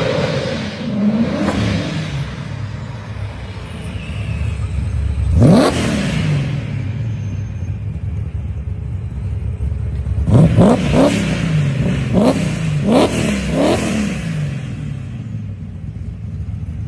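Supercharged small-block V8 of a custom Grand National drift car idling and being revved: one rev about five seconds in, then a quick run of five or six blips of the throttle between about ten and fourteen seconds, each rising and falling in pitch.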